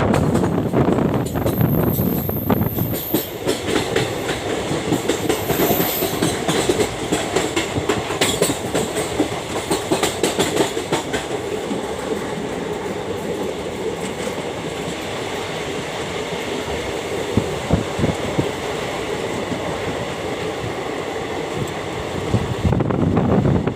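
A train running along the track, its wheels clattering steadily over the rail joints, with two brief high-pitched wheel squeals in the first few seconds.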